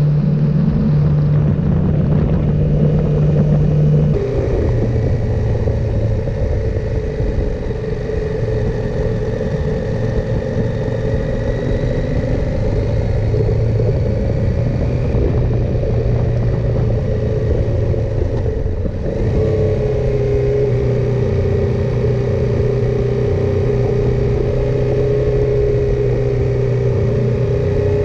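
KTM 890 Adventure R's parallel-twin engine running under way. The engine note drops about four seconds in and shifts again after a brief dip about two-thirds of the way through, as with gear changes.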